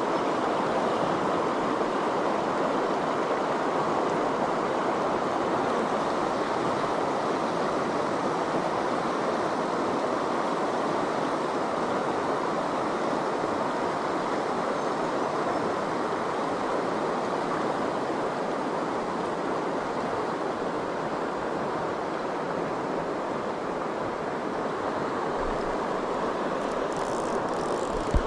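Steady rush of river water running over riffles, with one sharp knock near the end.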